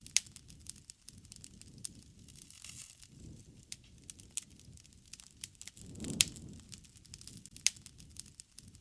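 Wood fire crackling, with irregular sharp pops and snaps over a low, shifting rumble of flame. About six seconds in the rumble swells and a loud pop stands out.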